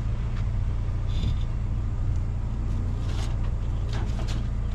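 Steady low engine hum, like a vehicle idling, with a few faint clicks and rattles of things being handled.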